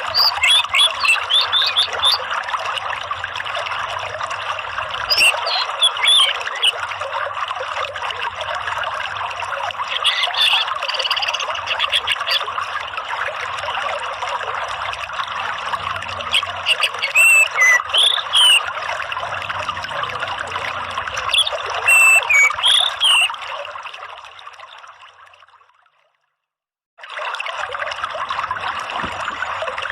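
Steady running water with short high chirping calls scattered over it. It fades out about 24 seconds in, drops to silence for about a second, then starts again.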